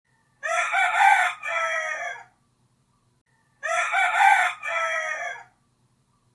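Rooster crowing twice, cock-a-doodle-doo, each crow about two seconds long.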